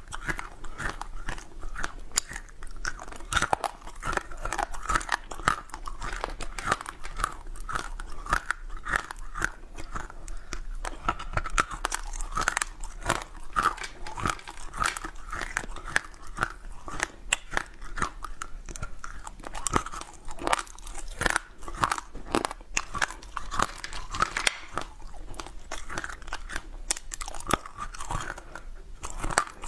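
A hard frozen treat being bitten and chewed: crisp crunches, many a second and irregular, with chewing between bites.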